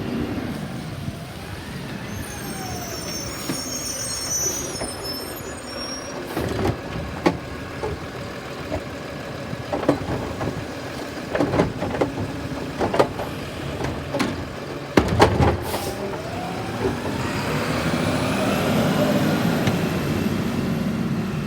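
Garbage truck's diesel engine running through a trash pickup. A series of sharp clanks and bangs comes in the middle, and the engine rises in level and pitch near the end.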